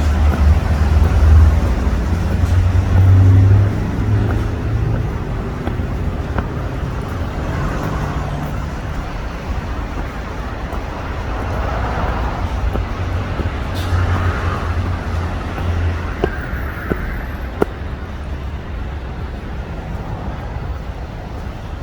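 Road traffic passing: a steady low rumble of cars, swelling in the first few seconds and again about halfway through, with a few light ticks near the end.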